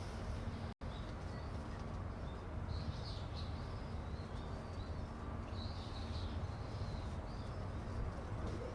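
Small birds chirping in short bursts over a steady low outdoor rumble, with a brief audio dropout about a second in.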